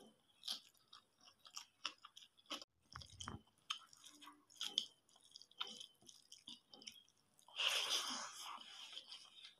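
Close-miked chewing of rice and curry, with irregular wet mouth clicks and smacks. About eight seconds in comes a louder, longer squishing stretch, which fits fingers mixing rice and curry on the plate.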